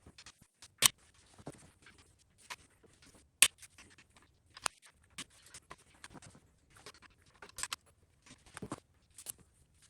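Irregular clicks and knocks of hand tools and metal parts being handled on a small-block V8 during cylinder head removal. The loudest knocks come about a second in and about three and a half seconds in.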